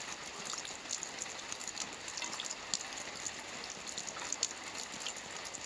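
Soft rain falling on a roof: a steady hiss of rainfall with many scattered, sharper drop ticks.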